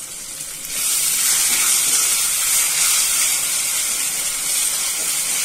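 Softened onion, tomato and capsicum sizzling in a hot iron kadai as a spoon stirs them, the sizzle jumping much louder about a second in and then holding steady.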